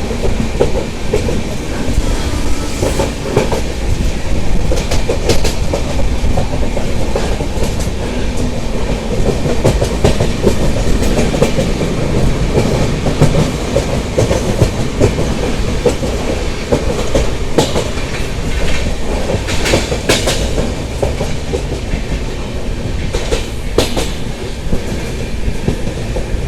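Mumbai suburban local train running, a steady rumble of wheels on track with sharp clacks now and then over rail joints.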